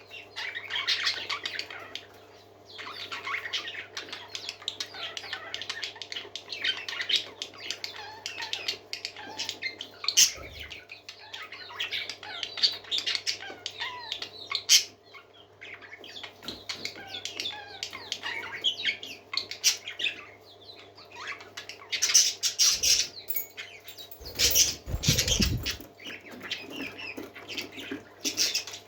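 Parakeets chattering and chirping continuously in dense, overlapping warbles and squawks. A few bursts of wing flapping come through, the loudest about three-quarters of the way through. A faint steady hum runs underneath.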